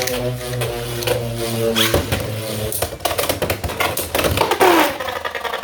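Hells Scythe and Rhino Horn Beyblade X tops spinning in the stadium. From about two seconds in they clash in a rapid, uneven string of sharp hits.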